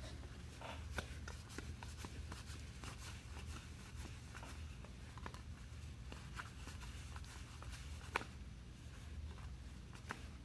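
Trading cards being handled and flipped through by hand: soft scattered clicks and rustles of card stock, one sharper click about eight seconds in, over a low steady hum.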